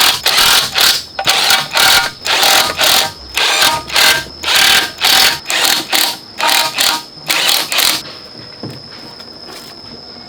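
Rhythmic rasping strokes, about two a second, like a hand scrubbing or scraping on a part. They stop about eight seconds in, leaving a faint steady high whine.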